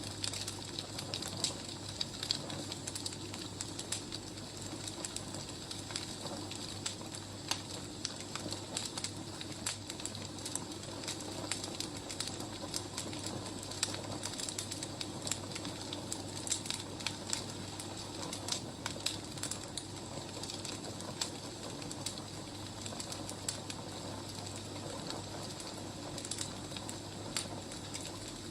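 Firewood burning, crackling with frequent small sharp pops over a steady hiss and a low steady hum.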